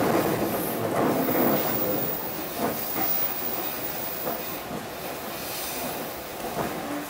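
Argo Parahyangan passenger train running at speed, heard from inside the coach: a steady rumble and hiss of wheels on rails with a few faint clicks, a little louder in the first second or so.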